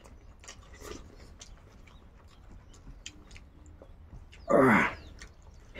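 Close-up chewing and lip-smacking of people eating rice by hand: a string of small wet clicks and smacks. About four and a half seconds in comes one short, loud vocal sound that falls in pitch.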